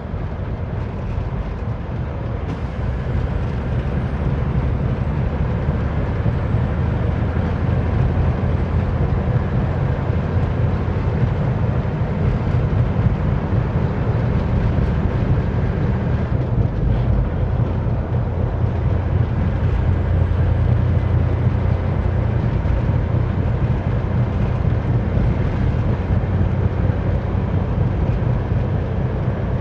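Big rig's diesel engine and road noise heard from inside the cab while driving, a steady low drone.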